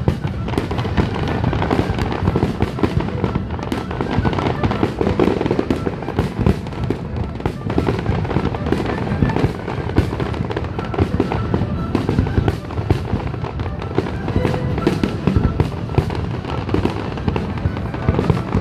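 Aerial fireworks going off in a dense, continuous barrage, with booms and cracks following one another without a break.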